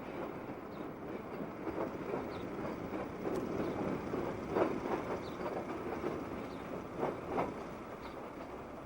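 Railroad train rolling past: a steady rumble of wheels and cars with scattered sharp clicks.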